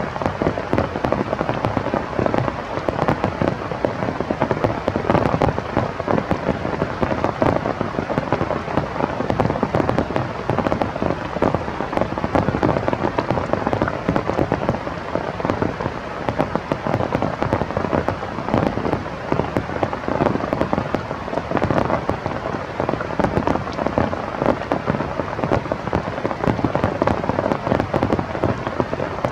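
Steady heavy rain: a dense patter of many close drop hits that does not let up.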